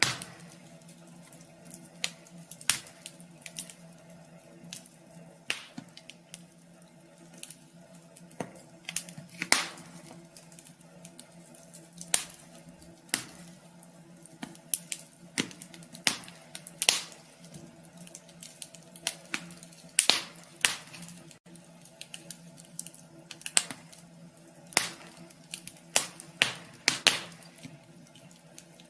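Wood fire crackling in a wood stove, with irregular sharp pops and snaps.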